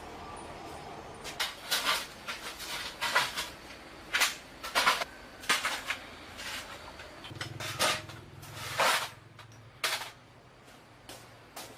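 A series of irregular knocks and clatters, about a dozen sharp strokes spread over several seconds. A low steady hum comes in about seven seconds in and stops just before the end.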